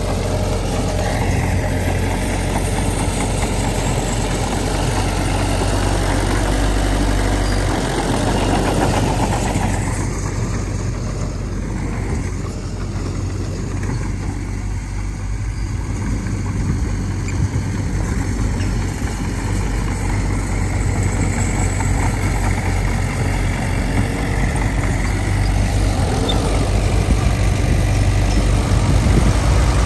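Heavy diesel engine of earthmoving machinery running steadily, its low note shifting slightly about a third of the way through.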